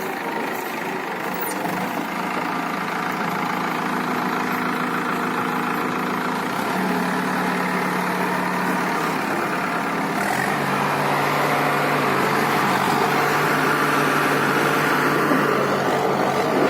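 BULL HD 76 backhoe loader's diesel engine running steadily, its pitch stepping down about ten seconds in.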